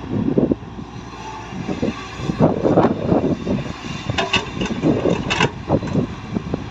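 Heavy earthmoving machinery at work: an engine running under repeated irregular knocks and clatter. A burst of sharper, brighter metallic clatter comes in the middle.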